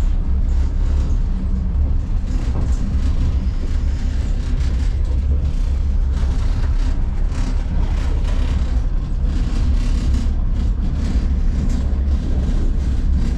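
Steady low rumble of a train carriage in motion, with the puffer jacket's fabric rubbing and rustling against the camera microphone in irregular scratches.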